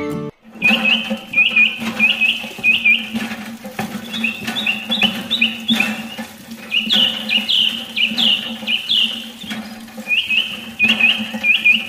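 Small birds chirping in quick runs of several short notes, over a steady low hum and the trickle of water running from a hose into a small plastic tank.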